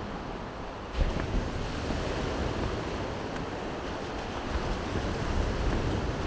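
Waves washing onto the Baltic Sea shore, a steady surf hiss, with wind buffeting the microphone in low gusts. A brief thump about a second in.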